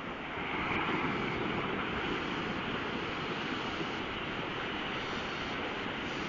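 Steady rush of surf and wind on the microphone.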